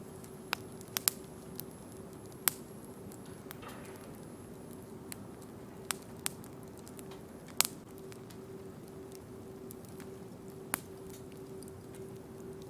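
Wood bonfire crackling: about nine sharp snaps and pops at irregular intervals, the loudest about two and a half and seven and a half seconds in, over a steady low hum.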